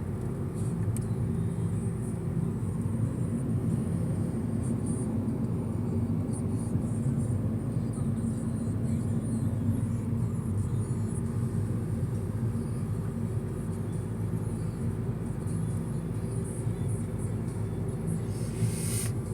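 A car driving, with the steady rumble of engine and tyres heard inside the cabin.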